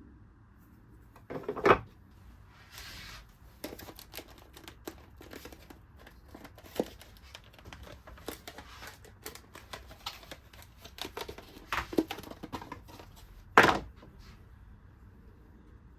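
Irregular small clicks, taps and rustles of objects being handled on a workbench, with three louder knocks: one early, two near the end.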